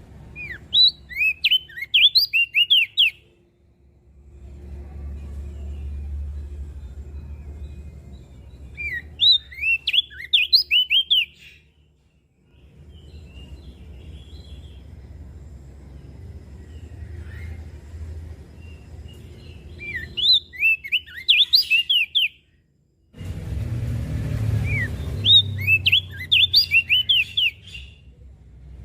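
Crested white-eye (opior jambul) singing: four phrases, each a quick run of sharp, high chirping notes lasting two to three seconds, with a low rumble of background noise between them.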